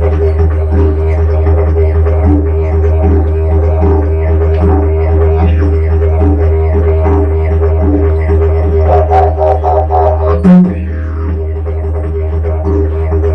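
Didgeridoo playing a sustained low drone, with rhythmic pulsing overtones riding on it; the drone breaks off briefly about ten and a half seconds in, then carries on.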